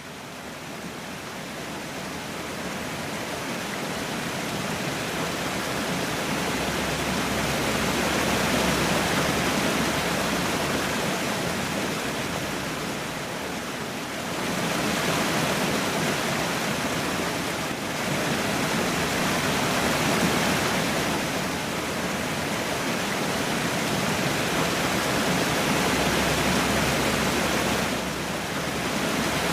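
Fountain jets spraying and splashing down onto a river: a dense, steady rush of falling water that builds over the first several seconds, then eases and swells again a few times.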